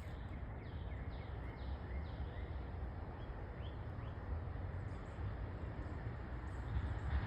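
Small birds chirping repeatedly in short, quick notes over a steady low rumbling background noise.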